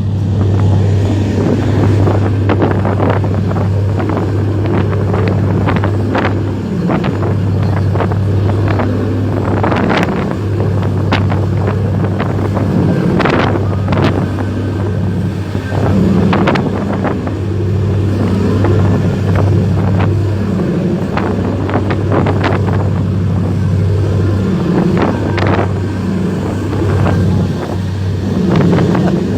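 A boat's motor running steadily at sea, with wind buffeting the microphone and repeated sharp knocks throughout.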